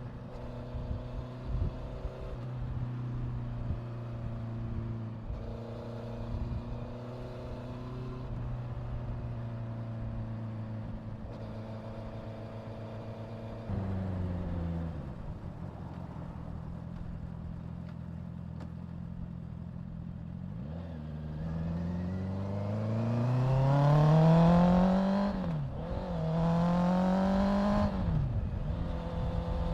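Honda CBR650F inline-four motorcycle engine heard while riding. It holds a steady note, eases off about halfway through, then accelerates hard with a rising whine, dipping sharply twice near the end as it changes up through the gears.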